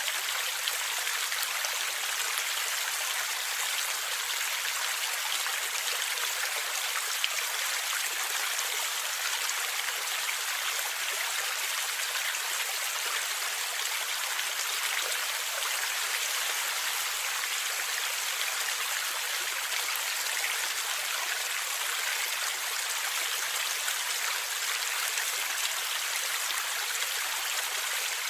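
A shallow stream running over rocks, a steady bright rush of water with many small splashes and trickles.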